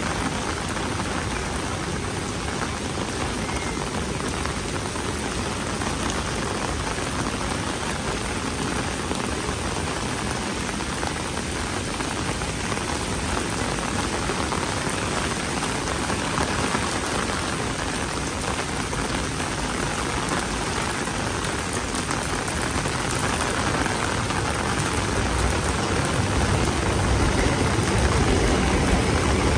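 Steady rain falling on a city street, an even hiss and patter. A low rumble builds and the sound gets louder near the end.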